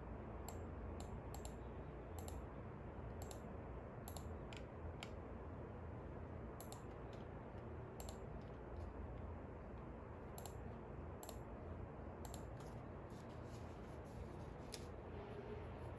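Scattered light clicks, sometimes two or three in quick succession, at irregular intervals over a steady low background rumble.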